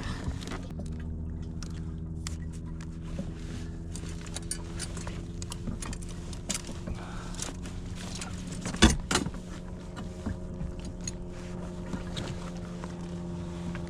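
Clicks and light rattles of fishing gear being handled on a kayak, with one loud knock about nine seconds in, over a steady low hum.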